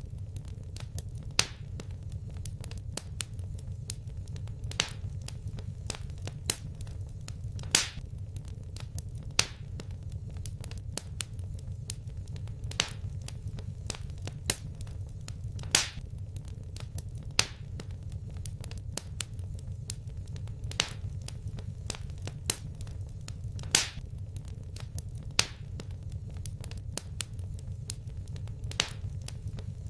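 Fireplace fire crackling: sharp pops every second or two and fainter ticks between, over a steady low rumble.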